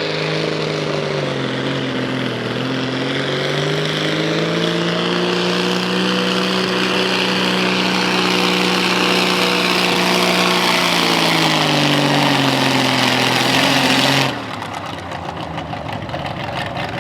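Farmall 400 hot stock pulling tractor's 360-cubic-inch diesel engine working hard under load down the track. Its pitch dips briefly about a second in, climbs and holds steady, then sags from about eleven seconds in as the engine is pulled down. The sound cuts off abruptly about fourteen seconds in, leaving a lower, rougher rumble.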